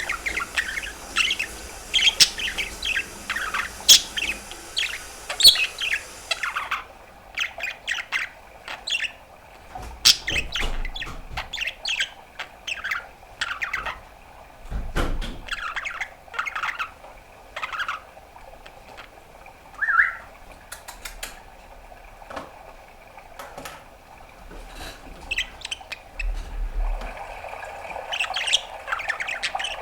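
Budgerigar chattering: rapid chirps, clicks and short warbles in uneven bursts, with a brief whistled note about two-thirds of the way through.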